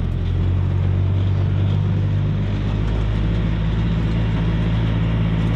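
Vehicle engine running steadily under way, a low drone whose pitch shifts slightly about halfway through.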